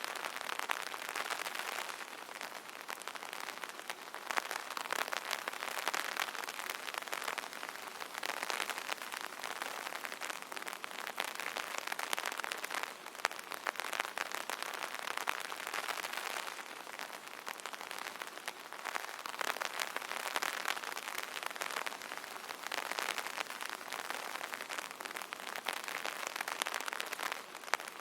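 Steady rain pattering on an umbrella: a dense hiss of drops with many sharp individual taps, swelling and easing slightly in intensity every few seconds.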